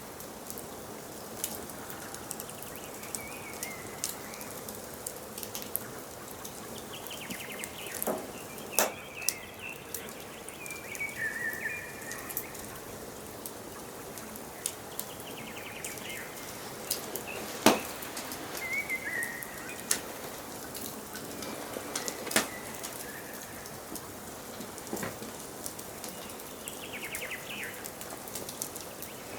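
Wood fire crackling and popping irregularly over a steady hiss, with one loud pop about two-thirds of the way through. Forest birds chirp and trill in the background every few seconds.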